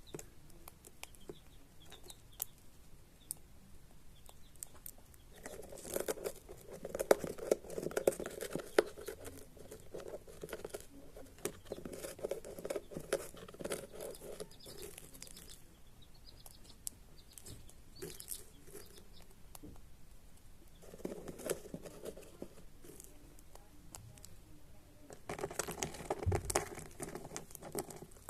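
Cockatiels pecking at a millet spray and cracking the seeds: a run of small sharp clicks and crackles, with louder spells of rustling several times.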